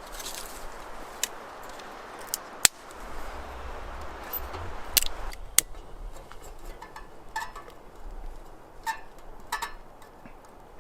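Camping gear being handled: rustling with scattered sharp clicks and knocks, the loudest a single sharp click a couple of seconds in, then lighter clinks and rattles.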